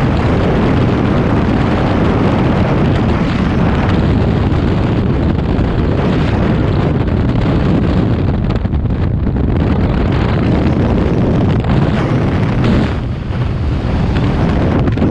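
Loud, steady rushing noise of wind buffeting the microphone, dipping briefly near the end.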